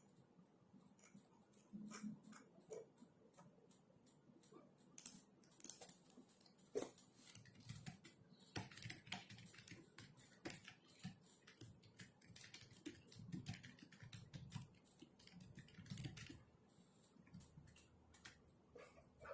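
Typing on a computer keyboard: a faint, irregular run of quick key clicks, with bursts of faster typing and short pauses.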